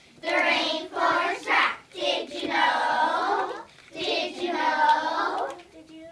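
A group of children singing together in short phrases with brief breaks between them, fading near the end.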